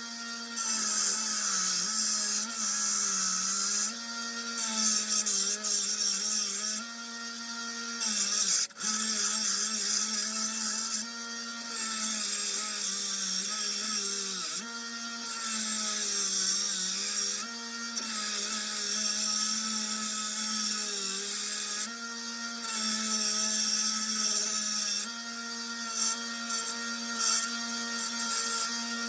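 Small 1x30 bench belt sander running steadily while a forged steel knife blade is pressed to the belt in repeated passes, grinding the bevels: a harsh grinding hiss rises with each pass of a couple of seconds and drops back to the motor's hum between passes.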